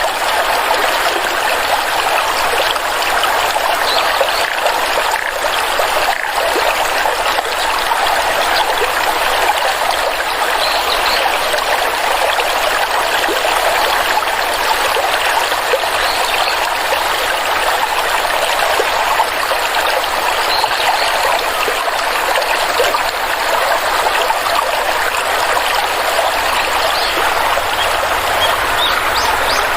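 Water stream flowing steadily, a continuous trickling rush of water.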